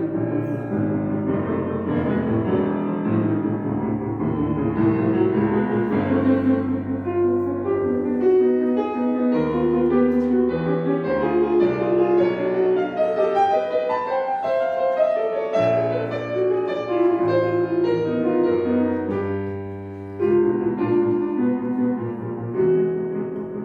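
Modern classical chamber music: a piano playing shifting chords against sustained low notes from other instruments, with a short dip in loudness about twenty seconds in.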